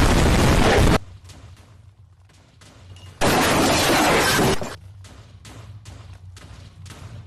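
Two loud blasts of explosion noise with a shattering, crackling texture, each cut off abruptly, the first about a second long and the second about a second and a half long starting about three seconds in. They are followed by a run of fainter short knocks, about three a second, over a low hum.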